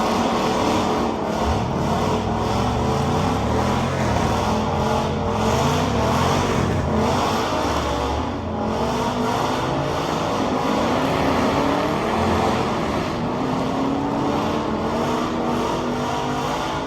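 Several car engines revving over and over, their pitches climbing and falling across one another.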